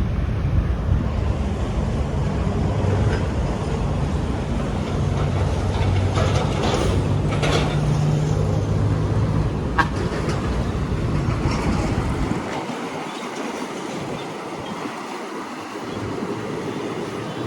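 Wind buffeting the microphone over steady outdoor noise; the low rumble drops away about twelve seconds in, leaving a fainter hiss.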